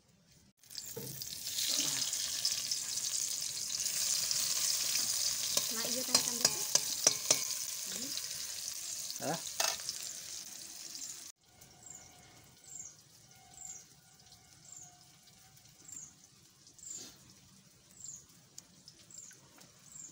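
Sliced onion sizzling in hot oil in an iron wok, with a few sharp clinks of stirring midway. The sizzle cuts off suddenly about eleven seconds in, leaving a quiet stretch where a small bird chirps repeatedly.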